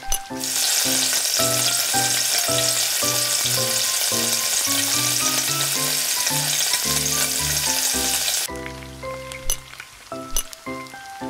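Chopped garlic and onion hitting hot oil in a small steel wok and frying with a loud, steady sizzle, which cuts off suddenly about eight and a half seconds in.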